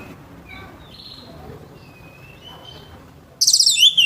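Orange-headed thrush (anis merah) singing: a few faint high notes and a thin whistle, then a loud, harsh, rapid phrase of falling notes near the end.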